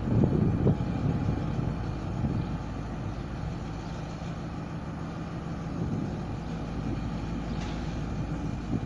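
Diesel locomotive engine running with a steady low drone, loudest in the first second.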